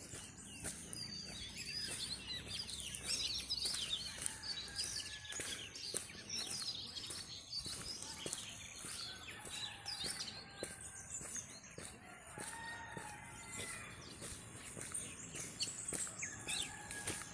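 Birds chirping and calling, with many short high chirps throughout and a few longer held calls.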